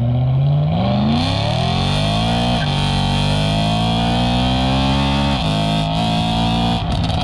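BMW E92 M3 V8 accelerating hard through the gears: the engine note climbs steadily, drops sharply at an upshift about two and a half seconds in and again about five and a half seconds in, then climbs again.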